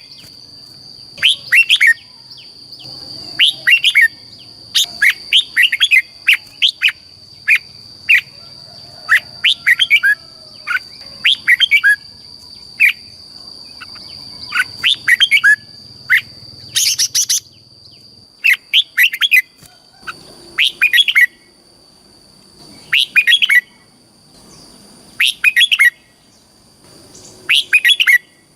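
Red-whiskered bulbul singing: short, rapid phrases of several quick notes, repeated every second or two, with the pauses growing longer in the second half. A steady high whine runs faintly underneath.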